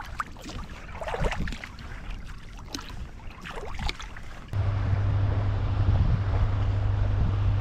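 Water splashing and knocks against a kayak, irregular, as a sea kayak sets off; about halfway through it changes abruptly to steady wind and water noise with a constant low hum.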